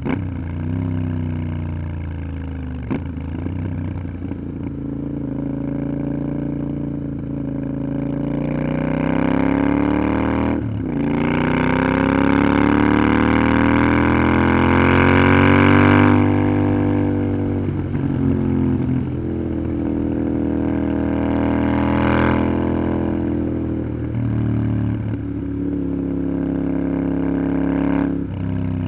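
Motorcycle engine under way, its pitch climbing as it accelerates, broken by a quick gear change about a third of the way in. After the halfway point the throttle eases and the pitch falls, with a few short dips and blips as it slows.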